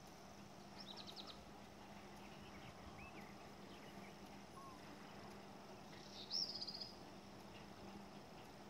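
Quiet outdoor ambience. A bird twitters briefly about a second in and again, louder, around six seconds in, over a steady high insect whine and a faint low hum.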